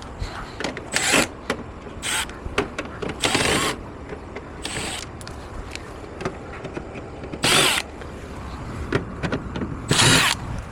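Work noises from dismantling a Samsung air conditioner: scattered clicks and half a dozen short scraping, rustling sounds, like plastic panels and parts being handled and pulled off, over a low background rumble.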